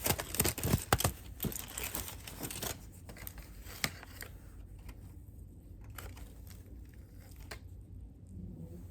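Packaging being handled and torn open, crinkling and crackling, busiest in the first three seconds and then thinning to scattered clicks.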